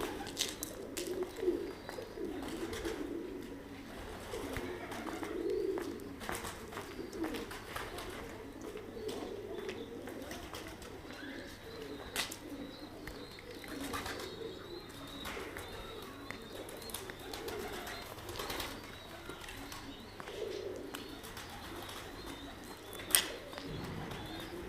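Domestic pigeons in a pigeon house cooing steadily, many low coos overlapping, with scattered sharp clicks and one louder knock near the end.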